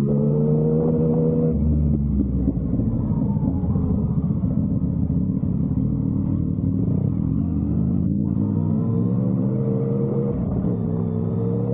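Yamaha MT-09's inline three-cylinder engine running through an SC Project aftermarket exhaust while riding. The engine note drops about a second and a half in and climbs again near the end.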